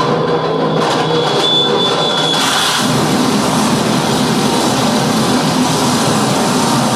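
Harsh noise music played live: a loud, dense, unbroken wall of rumbling electronic noise. A thin high whistling tone sits on top for the first two seconds or so, and the texture thickens about two and a half seconds in.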